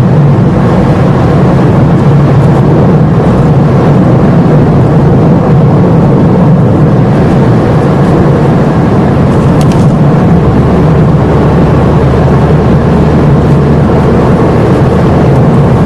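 Car driving, its steady engine and road noise heard from inside the cabin. A deeper low hum joins about ten seconds in.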